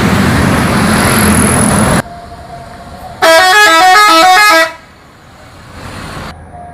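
A loud vehicle rumble that cuts off sharply about two seconds in. Just over a second later a multi-tone horn plays a quick run of notes that step up and down, for about a second and a half.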